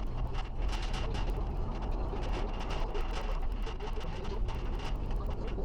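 Trailer carrying a strapped-down motorcycle being towed on the road: a steady low rumble of road and wind noise, with rapid rattles and knocks as the trailer bounces.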